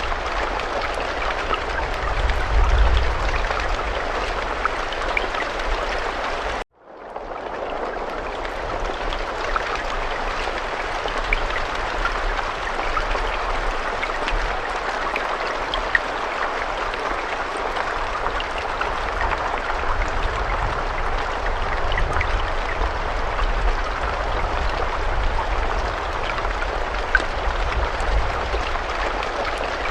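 Steady rain falling, a continuous hiss with scattered individual drop ticks and a low rumble underneath. About seven seconds in the sound cuts out briefly and fades back in.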